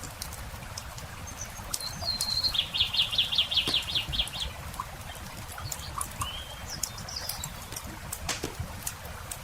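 Campfire crackling with scattered sharp pops, while a songbird sings a fast trill lasting about two seconds a few seconds in, followed by a couple of short chirps.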